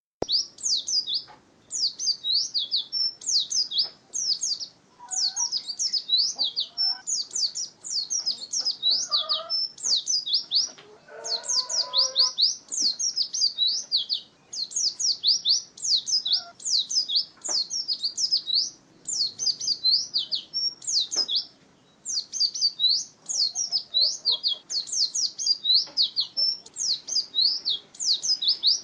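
White-eye (pleci) singing its long 'ngalas' song: rapid, high, chattering notes strung into near-continuous phrases, broken only by brief pauses.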